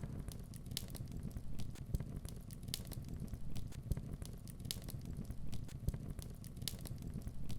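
Crackling sound effect: irregular sharp pops and snaps over a steady low rumble.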